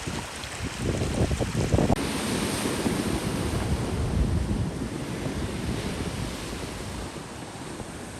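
Wind gusting on the microphone over a steady rush of ocean surf; the sound changes abruptly about two seconds in, after which the rush carries on evenly.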